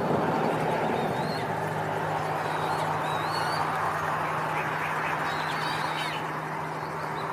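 Coots calling, a continuous din of waterbird calls, with short high chirps of other birds now and then.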